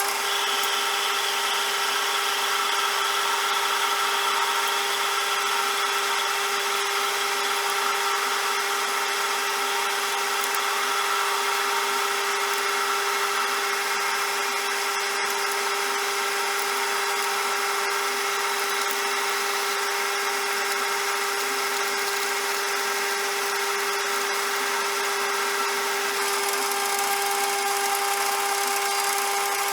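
CJM360 benchtop metal lathe running steadily, with a steady whine, its tone shifting slightly near the end.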